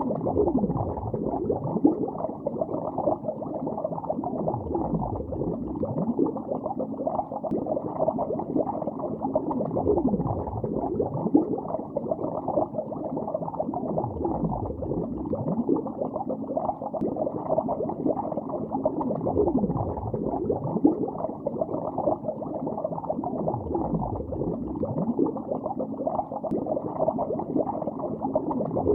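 Continuous muffled bubbling heard from under the water, dense and without treble, with a deeper surge about every five seconds.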